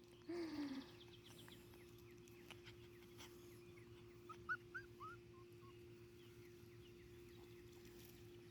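A six-week-old pomsky puppy gives one short falling whine at the start. A few faint, high, short chirps come about halfway through, over a steady faint hum.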